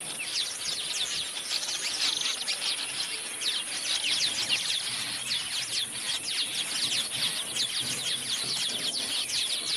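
A dense chorus of many small birds, with quick, overlapping high chirps that sweep downward, over a steady high-pitched buzz.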